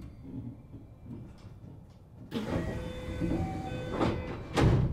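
Running noise heard inside a JR West 227 series electric train car. A low rumble suddenly grows louder about two seconds in, with brief squealing tones, and a loud thump comes near the end.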